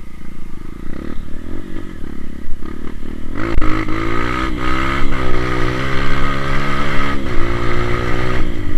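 Honda CRF 230 trail bike's single-cylinder four-stroke engine running at low revs, then revving up about three seconds in and holding high revs under load, with a few brief dips, before easing off near the end.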